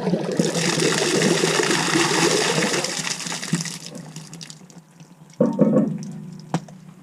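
Toilet flushing, water rushing loudly for about four seconds and then tapering off. The flush drains freely, a sign that hot water has cleared the ice from the frozen drain stack.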